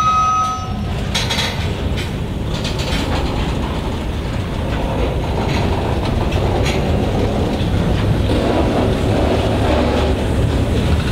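Freight train's covered hopper cars rolling past: a steady rumble of steel wheels on rail, with a few sharp clicks and clanks.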